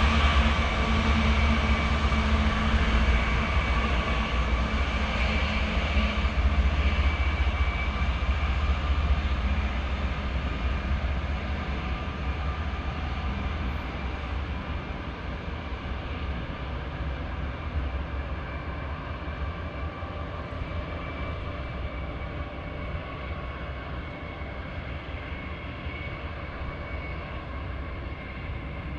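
Freight train rolling by on the rails, a steady rumble with a thin, steady high whine over it, fading gradually as the train moves away.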